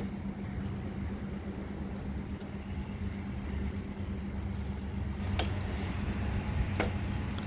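An engine running steadily with a low, even hum, and two short sharp clicks near the end.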